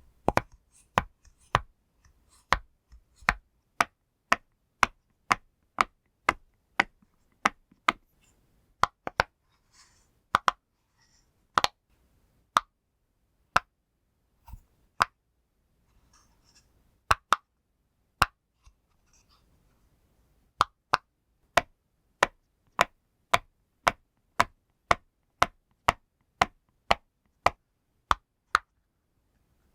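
Bubbles of a push-pop fidget toy being pressed one after another, each a sharp pop, at about two a second, with fewer pops through the middle of the stretch.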